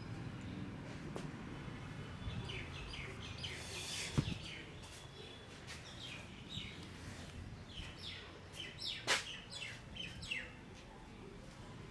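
Small birds chirping in quick runs of short, falling chirps. There is a single sharp tap about four seconds in.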